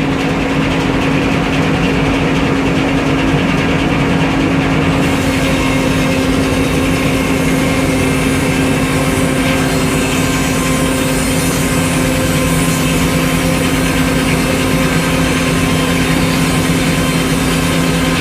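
Old sawmill's engine running steadily at a constant speed; a higher hiss joins in about five seconds in.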